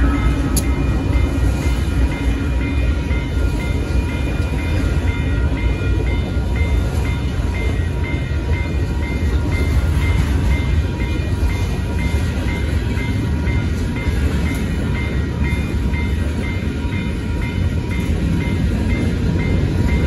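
Freight cars of a Union Pacific manifest train rolling past, a heavy, steady low rumble of steel wheels on rail with a sharp clank just after the start. Over it the grade-crossing warning bell rings, about two strokes a second.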